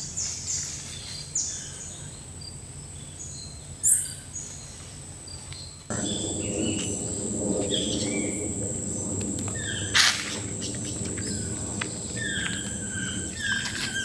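Tropical forest ambience: many birds chirping and whistling over a steady high-pitched insect drone. The background changes suddenly about six seconds in, with a fuller low rumble underneath, and a short sharp sound stands out about ten seconds in.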